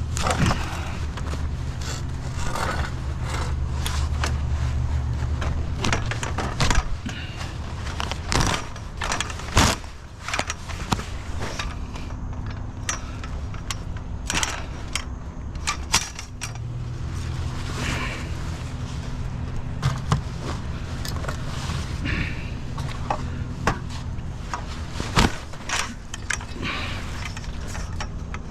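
Scrap metal being handled by hand: repeated clinks, rattles and scrapes, with a few sharper knocks. A vehicle engine idles underneath for the first few seconds and again for a stretch past the middle.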